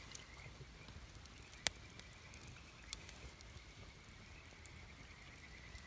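Wood campfire burning quietly, with a soft hiss and a few sharp crackling pops from the burning wood.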